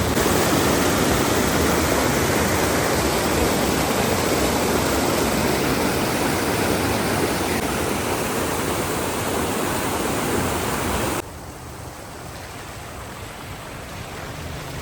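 A waterfall's steady rush of falling water. It drops suddenly in loudness about eleven seconds in and carries on quieter.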